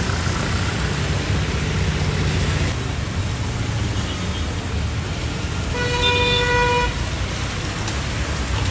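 Road traffic rumbling steadily, with one vehicle horn sounding a single toot of about a second, roughly six seconds in.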